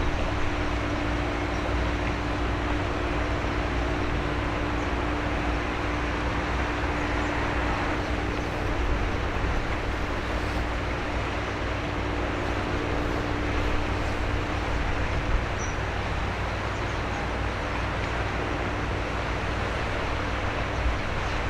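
Steady drone of a passing container ship's diesel engine and machinery: a low rumble under an even hum, with a constant wash of noise.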